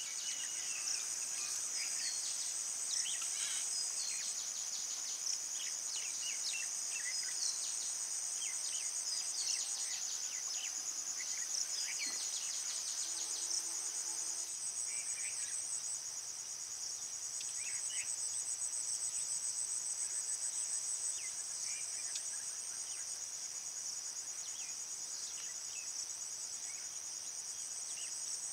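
Insects, crickets by their sound, trilling steadily and high-pitched throughout. Many short chirps are scattered over the trilling.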